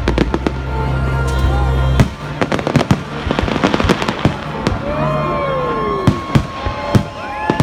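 Fireworks and firecrackers banging in quick, irregular succession, with whistling fireworks gliding down and up in pitch in the second half. Bass-heavy music from a stage sound system holds a deep note until about two seconds in.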